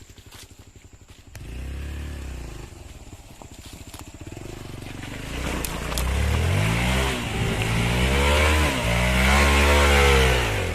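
Hero Xpulse 200 motorcycle's single-cylinder engine running, then revved up and down in several swells that grow louder toward the end.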